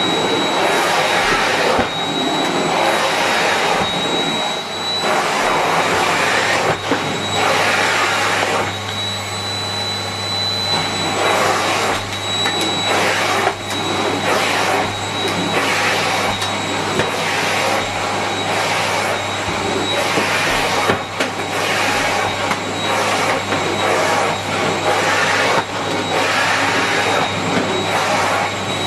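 Miele Complete C3 canister vacuum cleaner running at full suction, with a steady high motor whine and hum. Its rushing airflow noise rises and falls every second or two as it is worked over the floor.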